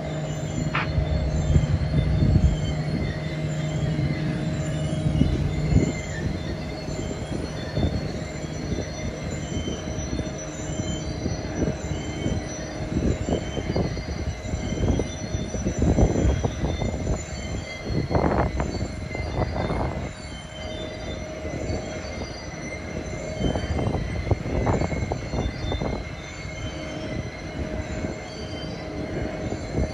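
Slow-moving freight train of tank cars and boxcars rolling past with a steady rumble and a thin, sustained wheel squeal. Irregular clanks and knocks from the cars come through, heaviest in the middle and later part, and a low hum fades out about six seconds in.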